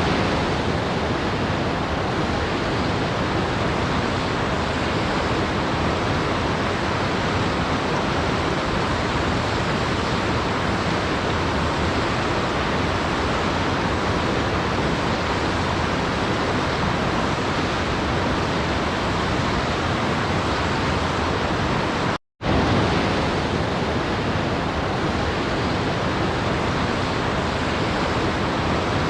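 Steady, even rushing of a waterfall, heard as a constant hiss with no rhythm or changes. About two-thirds of the way through it cuts out for a split second, then carries on at the same level.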